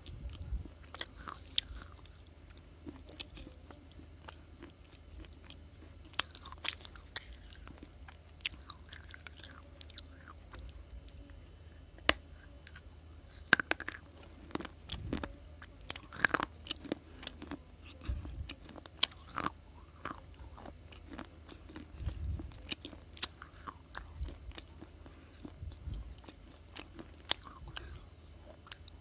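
Close-up biting and chewing of crunchy baked clay pieces: sharp, irregular crunches every second or so, with softer chewing in between.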